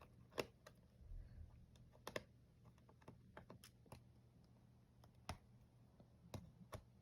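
Faint, scattered clicks and taps of a screwdriver and small screws against the plastic underside of a laptop, a dozen or so spread irregularly.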